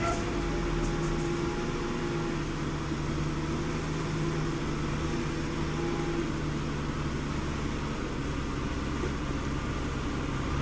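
Scania P 360 truck's diesel engine running steadily, a low even drone.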